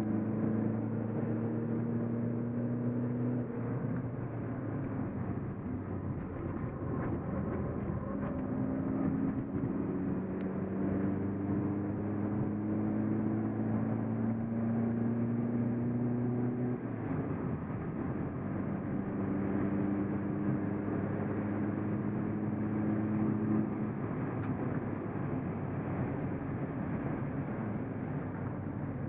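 SEAT Ibiza TDI's turbodiesel engine heard from inside the cabin under hard acceleration on track, with tyre and road noise. Its note climbs steadily in pitch and drops suddenly at each gear change, several times.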